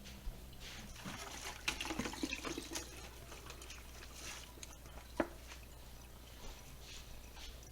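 Liquid splashing and trickling in irregular spurts, busiest in the first few seconds, with a sharp click about five seconds in.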